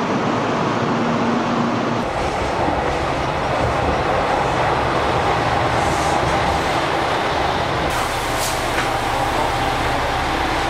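Express train running along a station platform, its wheels rumbling on the rails, with a brief high squeal about eight seconds in. For the first two seconds there is only a steady hum.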